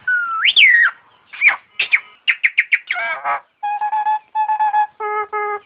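Nias myna (jalak nias) calling. It starts with a rising and falling whistle, runs into a quick series of sharp downward notes, then holds steady, flat, ringtone-like tones in short repeated blocks.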